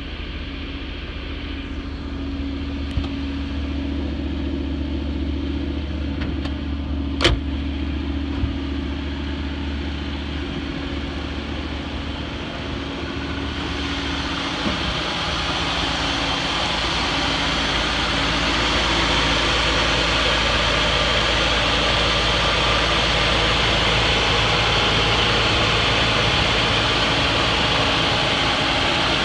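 1979 Chevrolet Malibu Classic's 305 V8 idling steadily. It is muffled at first, as if from inside the car, then louder and fuller from about halfway as it is heard from outside near the open hood. There is one sharp click about a quarter of the way in.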